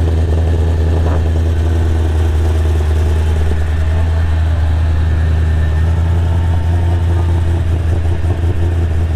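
A Ford Shelby GT500's supercharged V8 idling steadily with a deep, even low rumble.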